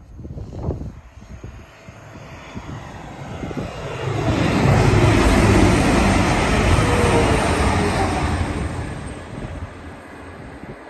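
A multiple-unit passenger train passing by on the line: its rumble builds over a few seconds, is loudest as the coaches go past with a tone falling in pitch, then fades away as it recedes.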